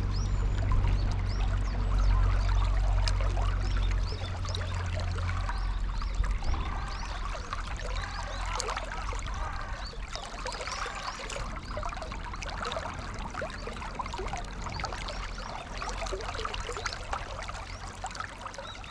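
River water flowing and babbling over stones, full of small gurgles. A low rumble sits under it for the first four seconds or so, then drops away.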